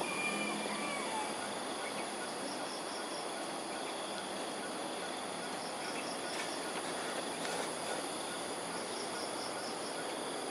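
Insects trilling steadily at a high pitch, with a short group of quick high chirps repeating every few seconds, over a steady low background noise.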